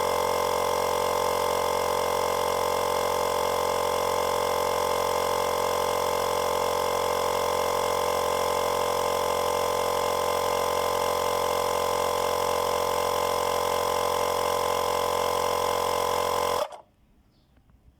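Xiaomi 70mai Air Compressor Lite, a 12-volt portable tyre inflator, running with a steady mechanical hum. It cuts off suddenly near the end.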